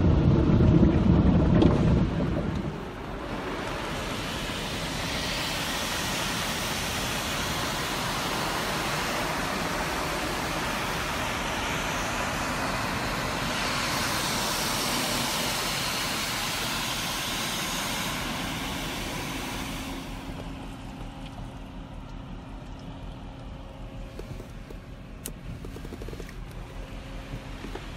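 Automatic car wash heard from inside the car: a low rumble for the first couple of seconds, then a steady hiss of water spray hitting the car, which eases off about twenty seconds in.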